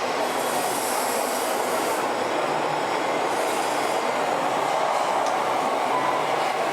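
Steady mechanical running noise of RC model vehicles at work, with hissing that comes and goes up high.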